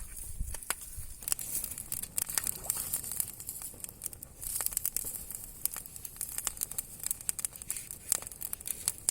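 Campfire crackling: irregular sharp snaps and pops over a steady hiss.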